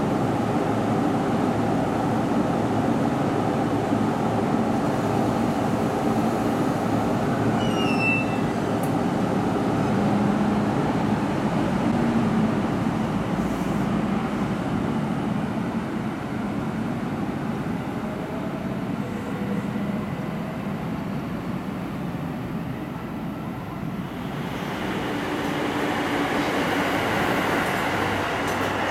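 JR East E233-series electric commuter trains at a station platform: a steady rumble of train running noise, with a brief high squeal about a third of the way in. Near the end a brighter rushing sound builds as another train approaches.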